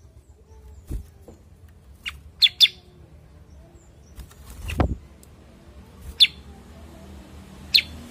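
Cucak kurincang (common iora) giving short, sharp chirps, singly or in quick pairs, with pauses of a few seconds between them. A dull thump comes a little before the middle.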